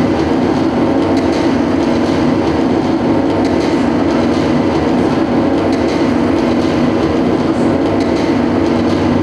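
Live experimental noise music from an ensemble: a loud, unbroken wall of dense noise with a heavy low-mid drone, its lowest tones shifting near the end.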